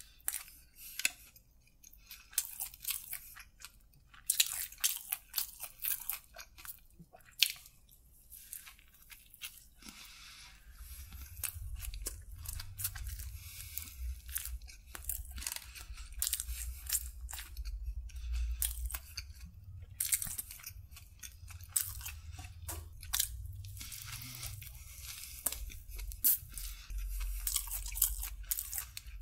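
Close-miked chewing and biting of a soft bread sandwich with chicken filling: a dense run of wet mouth clicks and smacks with irregular pauses. From about ten seconds in, a steady low rumble sits underneath.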